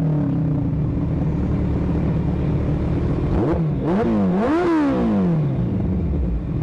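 Small mini-motorcycle engines running: one drones steadily while another, about three and a half seconds in, revs up twice in quick succession and then drops in pitch over about a second.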